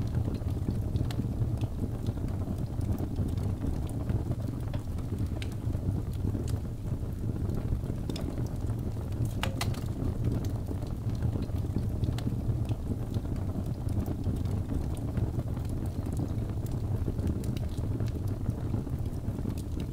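Wood fire burning in a fireplace: a steady low rumble with scattered crackles throughout and one louder pop about halfway through.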